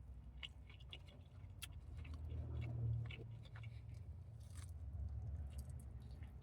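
Close chewing of a fried chicken sandwich: scattered small wet mouth clicks and smacks over a low steady rumble that swells around the middle.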